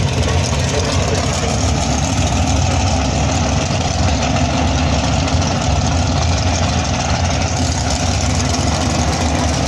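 Drag-race car engines running steadily and loudly at the starting line while the cars sit staged, with no launch.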